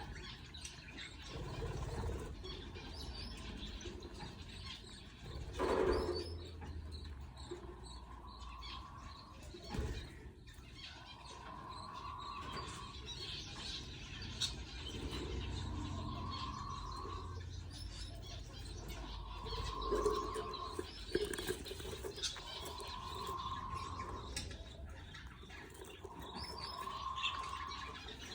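Budgerigars chirping, with high cheeping from budgie chicks being fed. A short steady hum recurs about every three to four seconds, and there are a few thumps.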